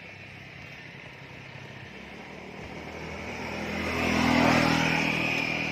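Two-stroke Suzuki Satria motorcycle with an EL5 racing exhaust, its engine sound building from about two seconds in to a peak near the four-second mark, then easing off.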